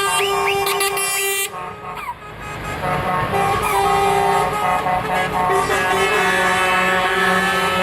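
Truck air horns sounding in long multi-note chords, one horn after another at different pitches, with a brief lull about two seconds in.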